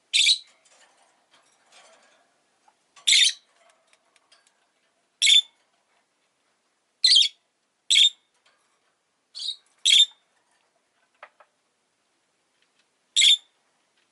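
Rosy-faced lovebird giving short, sharp, high-pitched calls, about eight of them one to three seconds apart, with faint soft chatter between.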